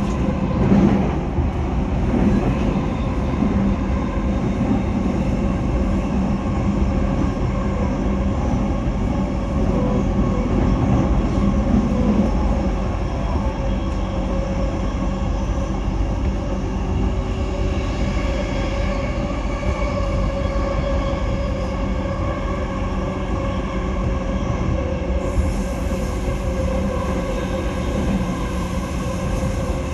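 Steady running noise of a Nambu Line electric commuter train heard from inside the car: wheels on rails with a steady hum of several even tones, holding a constant speed.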